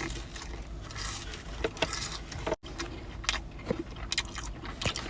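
Light scrapes, small clicks and rustling from handling a takeout container of loaded waffle fries, with the sound cutting out for an instant about halfway through.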